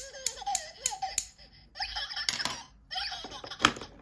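A high-pitched voice laughing and giggling, with several sharp clicks and taps.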